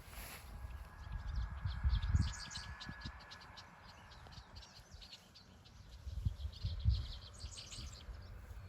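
Swallows twittering, quick runs of short high chirps throughout. Low rumbles of wind buffeting the microphone about two seconds in and again around six to seven seconds.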